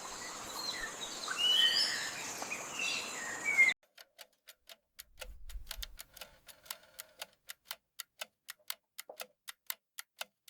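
Forest birds chirping over a steady hiss, cut off abruptly after about three and a half seconds; then sharp, evenly spaced ticking clicks, about three a second, with a brief low rumble near the middle.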